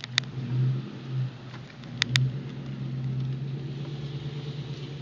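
A car engine running steadily, with a few sharp clicks at the start and about two seconds in.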